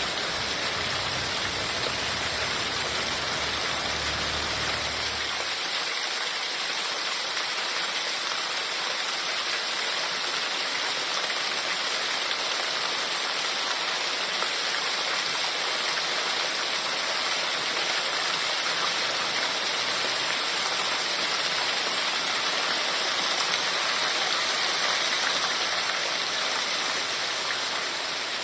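Heavy rain falling steadily, a dense even hiss. A low rumble underneath stops about five seconds in.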